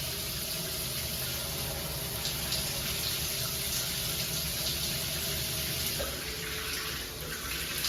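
Shower running: a steady, even spray of water.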